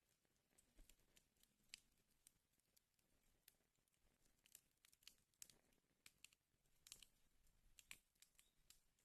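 Wood fire burning in a fireplace, crackling faintly with irregular small pops and snaps.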